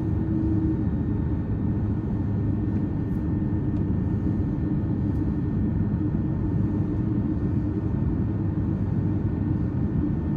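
Steady cabin noise inside an Airbus A330-300 airliner: an even rumble of engines and airflow with a constant low hum.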